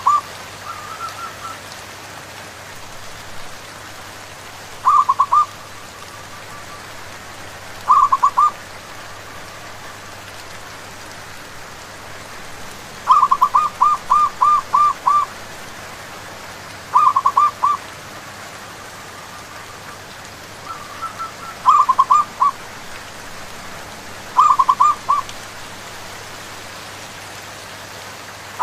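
Zebra doves cooing in repeated bouts of quick staccato notes, roughly every three to five seconds, with one longer bout about halfway through and fainter calls in between. Steady rain runs underneath.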